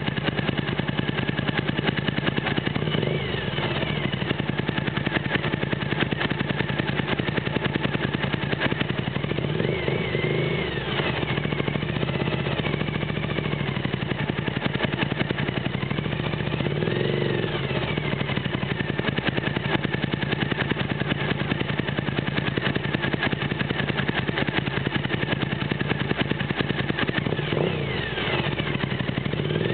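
Suzuki TL1000S 90-degree V-twin idling steadily while the bike stands still. A few other engines rise and fall in pitch as they pass, around ten, seventeen and twenty-eight seconds in.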